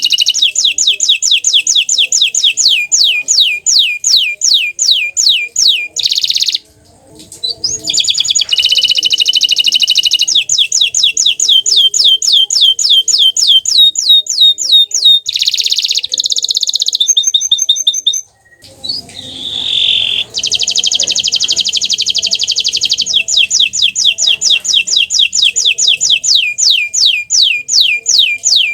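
A green domestic canary singing long, loud phrases of rapid repeated sweeping notes, the rolling trills of canary song. It breaks off twice briefly before starting again.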